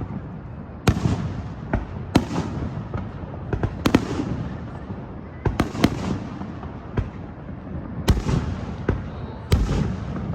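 Fireworks display: a string of loud sharp bangs, irregularly spaced one to two seconds apart, with fainter pops and crackling between them.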